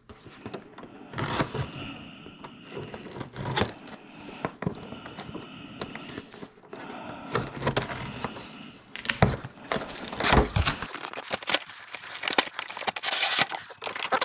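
Packaging being handled while a model truck chassis is lifted out of its box: scattered knocks and clacks of cardboard and plastic, with dense plastic crinkling in the last few seconds.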